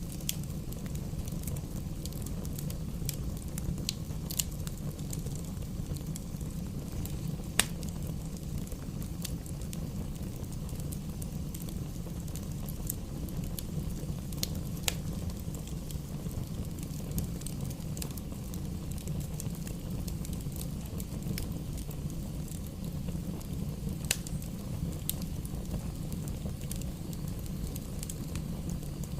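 Bonfire burning with a steady low rumble and scattered sharp crackles and pops, the loudest about seven and a half seconds in.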